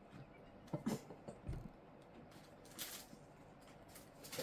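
Quiet eating sounds: a few soft clicks and brief rustles from chewing cake and handling its plastic wrapper, over the steady hum of a room fan.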